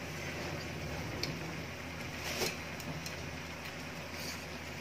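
Chopped squash, chayote and ground beef cooking in an aluminium wok: a steady, quiet sizzle with a low hum under it, and a few faint clicks as a ladle touches the pan.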